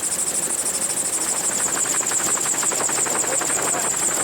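Gyroplane rotor beating steadily, many beats a second, as the gyro descends with its power cut. A steady high whine runs under it.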